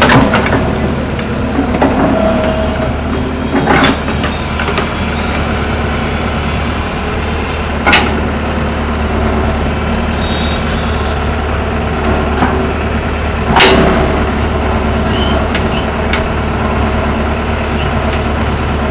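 Hitachi excavator's diesel engine running steadily, with three short, sharp knocks along the way.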